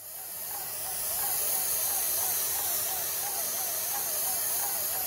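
Airless spray gun spraying, a steady hiss with a faint tone wavering up and down about three times a second.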